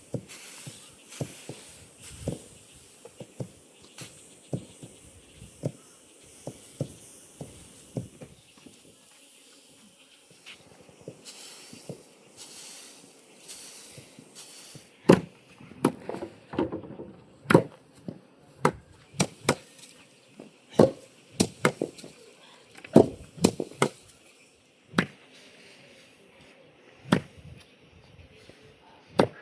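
A series of sharp knocks like chopping strokes, about one a second at first, then louder and more irregular from about halfway, over a faint hiss.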